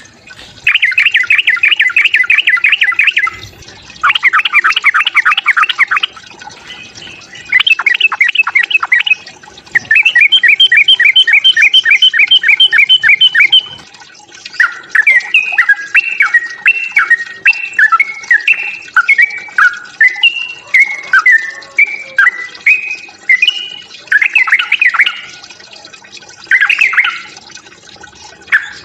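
Yellow-vented bulbul (trucukan) giving its aggressive fighting call: bursts of fast, harsh chattering notes, several a second, each burst lasting a few seconds, with a stretch of varied whistled notes gliding up and down in the middle.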